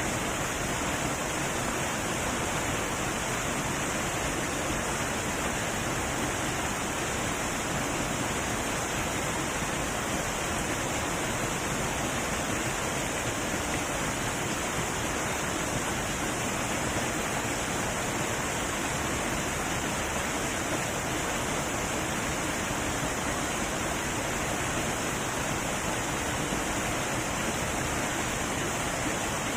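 Heavy waterfall: a steady, even rush of falling water that never breaks or changes.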